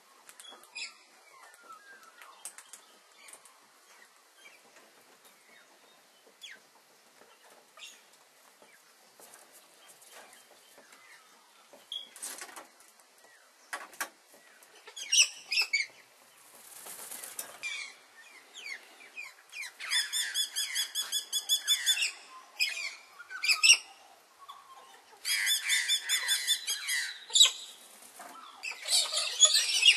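Wild birds calling. Quiet at first with faint scattered rustles; from about halfway, loud harsh calls come in several bouts, each made of quickly repeated notes.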